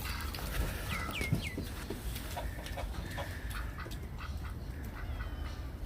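Chickens clucking, with three quick falling calls about a second in.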